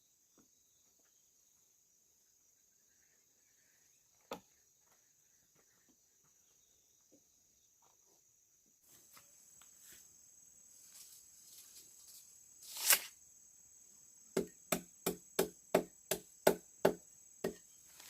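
Insects trill steadily in the background. A single knock comes about a third of the way in. Near the end, one louder short scrape is followed by a quick run of about nine sharp strikes on wood, roughly three a second.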